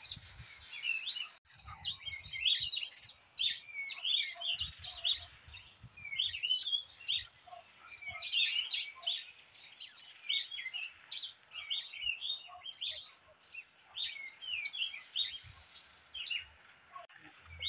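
Small birds chirping and calling: many short, quick chirps overlapping throughout, with a few faint low thuds underneath.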